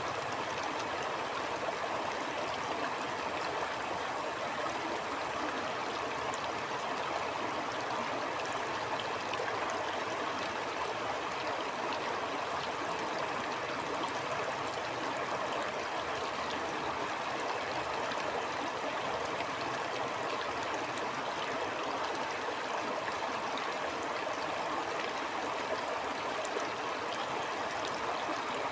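Stream water flowing steadily over rocks, a continuous rushing with faint small splashes and trickles.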